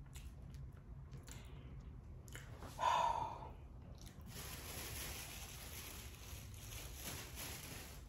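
A person chewing a mouthful of shrimp boil close to the microphone, with one louder, short sound about three seconds in. A steady hiss comes in about four seconds in.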